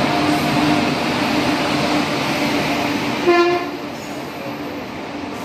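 An electric passenger train pulls in beside the platform with a steady rumble and a low hum from the locomotive and coaches rolling past. A short horn toot sounds about three seconds in, and after it the rumble quietens.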